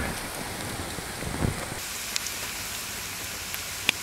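Chopped onions and spices frying in hot oil in a large cooking pot: a steady sizzle, with a few faint pops.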